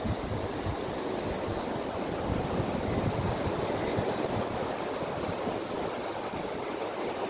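Steady rushing water, an even noise without breaks, with wind buffeting the microphone in the first few seconds.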